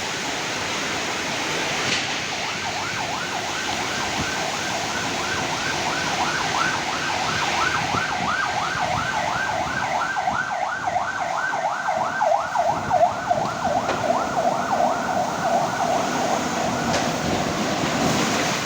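Strong wind and heavy rain, with an electronic siren warbling over it in rapid sweeps, about four a second. The siren starts about two seconds in and dies away near the end.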